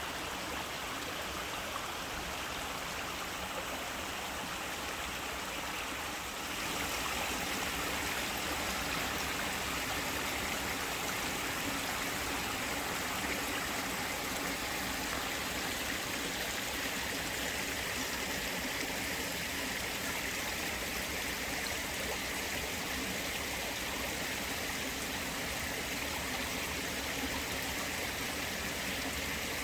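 Small waterfall running at a somewhat low flow: a steady, gentle rush and splash of falling water, a little louder and brighter from about six seconds in.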